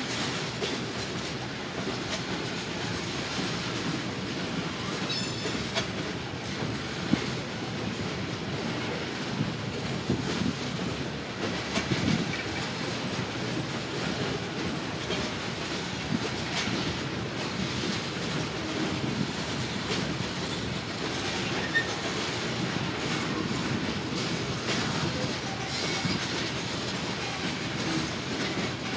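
Train cars rolling past, with continuous rumbling and an irregular clatter of wheels over the rail joints, broken now and then by louder clanks.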